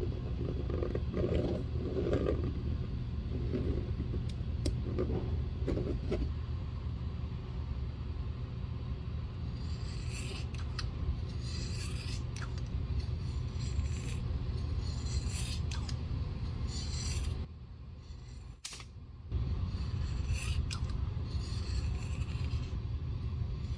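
Scraping and rubbing strokes on a leather cowboy boot during restoration, sharper and about one a second in the second half, over a steady low hum that breaks off briefly about three-quarters of the way through.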